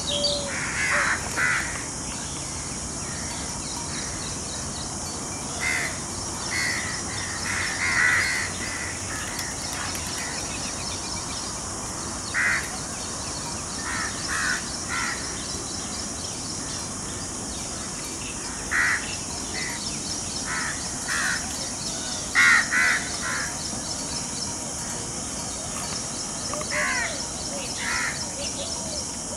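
A bird calling with short, harsh caws, two or three at a time, every few seconds, over a steady high hiss.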